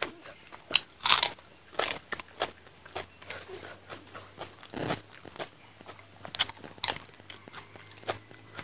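A person chewing a mouthful of food close to a clip-on microphone, with irregular crunchy bites and chewing clicks throughout.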